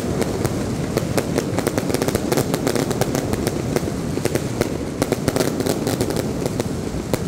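Fireworks going off in a dense, rapid crackle of sharp pops over a steady low rumble.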